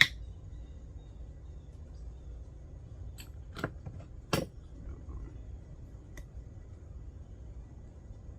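A sharp metallic click, then a few lighter clicks and clanks of small metal parts being handled, as when working on a chainsaw's bar and cover.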